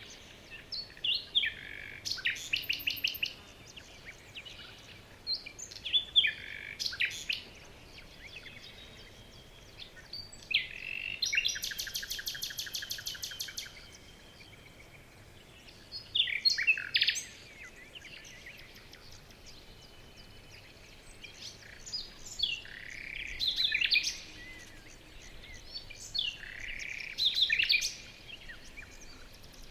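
Songbirds calling and singing in short bursts of chirps and trills every few seconds, over a faint steady background hiss. One longer, rapid trill of evenly repeated notes runs for about three seconds near the middle.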